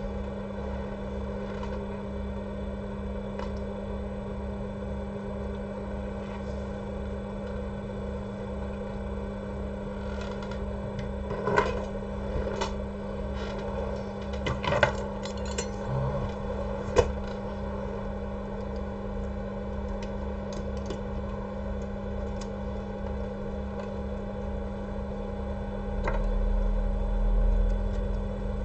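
Steady electrical hum from repair-bench equipment with a regular low pulsing under it, broken by a few small clicks and taps of handling in the middle and a louder low rumble near the end.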